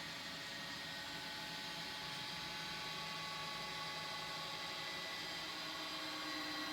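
Electric linear actuators running steadily, a motor whine with several held tones, as they lower a pair of trolling motors on their mounts.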